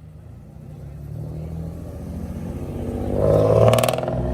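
A motor vehicle's engine running close by, growing steadily louder and peaking briefly with a rapid pulsing burst near the end.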